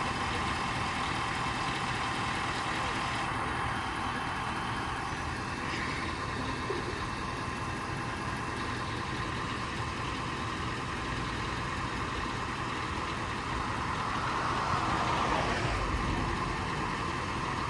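A vehicle engine idling steadily, swelling slightly near the end.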